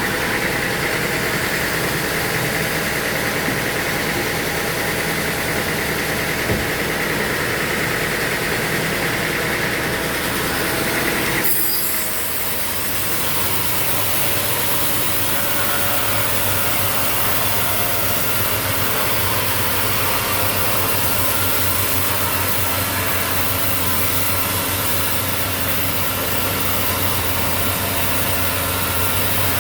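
Sawmill machinery running steadily. About eleven seconds in the sound changes suddenly: a higher whine drops away and a lower, steadier hum takes over.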